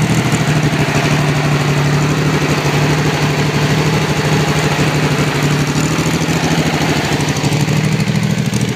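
1965 Chevrolet Corvair's 140 hp air-cooled flat-six with four carburetors, idling steadily. The owner says the carburetors have not yet been adjusted or synchronized.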